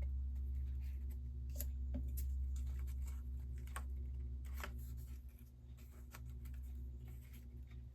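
Steady low electrical hum, with a few light paper rustles and soft taps as die-cut paper pieces are handled and laid on a card.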